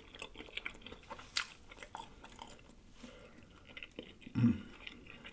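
Close-miked mouth sounds of a person biting and chewing a corned beef and Swiss cheese sandwich: irregular wet smacking, with one sharper crunch about a second and a half in. A short hummed voice sound comes about four and a half seconds in.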